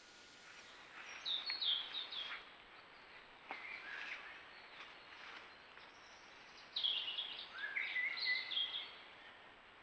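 Songbird singing in three bursts, each a quick run of high chirping and warbling notes, over faint steady background hiss.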